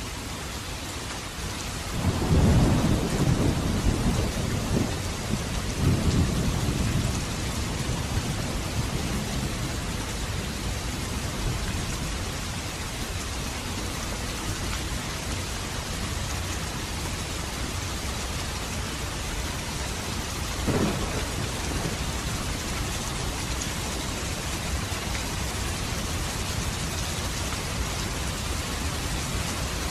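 Steady rain falling, with rolls of thunder: a loud low rumble about two seconds in, another about six seconds in, and a shorter one about two-thirds of the way through.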